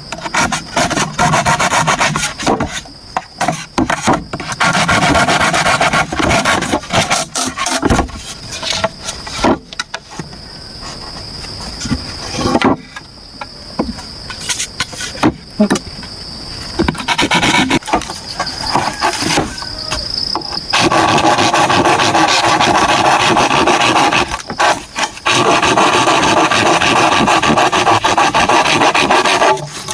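Repeated rasping strokes of a hand tool working bamboo or wood, with short pauses between runs of strokes.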